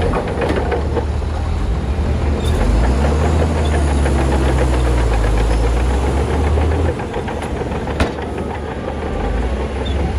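Heavy diesel engine of a Shantui bulldozer working under load: the low rumble grows heavier about two and a half seconds in and drops back around seven seconds. A single sharp knock comes about eight seconds in.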